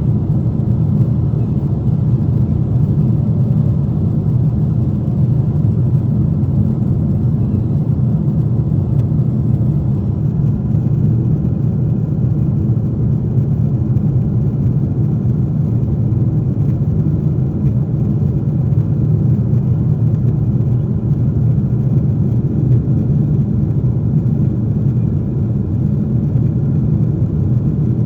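Boeing 747-8 cabin noise: a steady low rumble of the engines and airflow with no change in level.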